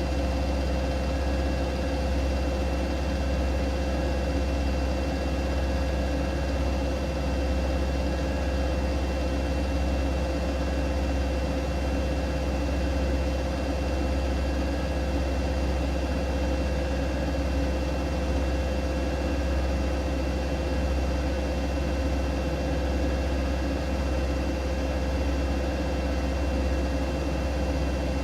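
Siemens Siwamat iQ 716 front-loading washing machine running steadily: a constant low hum with a steady mid-pitched whine, unchanging and without pauses.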